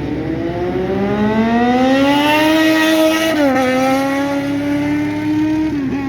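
Superbike engine accelerating hard, its pitch climbing steadily, then dipping briefly at an upshift about three and a half seconds in and holding high, with another quick dip near the end.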